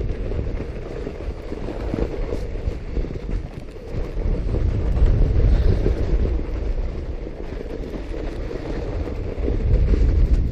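Fat bike riding over snow: a low, uneven rumble of the ride mixed with wind buffeting the microphone.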